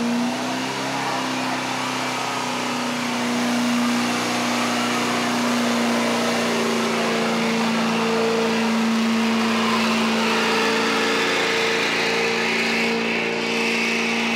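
A truck engine running loud at high revs, held at a nearly steady pitch, with a wide rushing noise over it.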